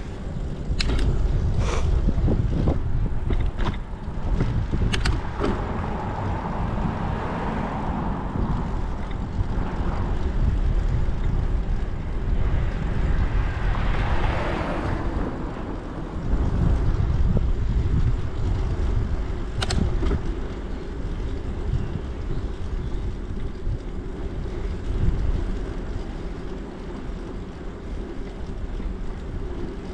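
Riding noise from a bicycle: wind buffeting the microphone over a steady low rumble from the tyres, with several sharp clicks and rattles in the first five seconds and one more about two-thirds of the way through. A rushing swell of noise rises and fades around the middle.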